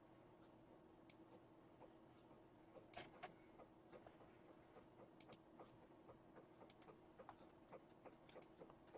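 Near silence with scattered faint clicks, a computer mouse being clicked, the loudest pair about three seconds in, over a faint steady hum.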